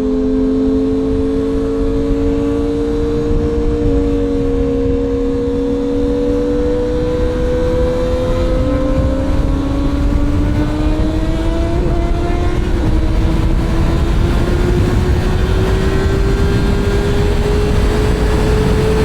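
Sportbike engine running steadily under way, its pitch slowly rising, with small shifts in pitch about four and nine seconds in. Heavy wind rumble on the microphone underneath.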